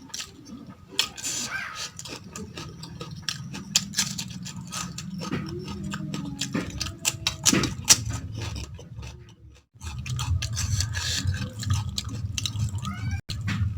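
Close-up chewing and mouth sounds of someone eating mutton tahari rice with gravy: many small clicks over a steady low rumble, pausing briefly about nine and a half seconds in.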